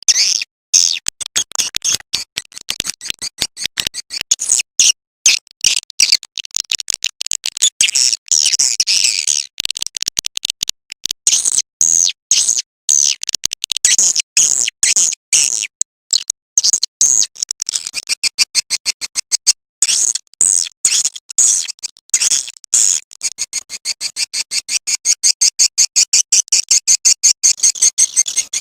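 Swiftlet calling-sound recording: rapid, high-pitched chirping of edible-nest swiftlets in quick runs broken by short gaps, the lure call played to draw swiftlets into a nesting house.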